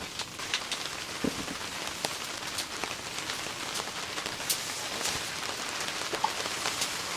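Rain falling steadily, an even hiss with many separate drops striking close by at irregular moments.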